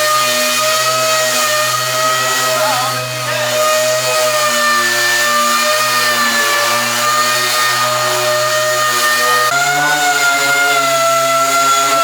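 Electric power tool motor running steadily at high speed, its pitch stepping up slightly about three-quarters of the way through.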